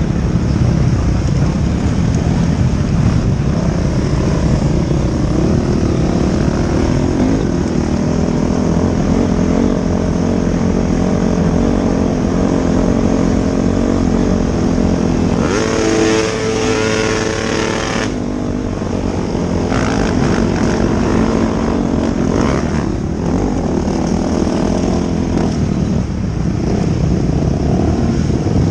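Motocross motorcycles running together as a group, a steady mass of engine noise. About halfway through, one bike's engine stands out with a short rising rev lasting two or three seconds.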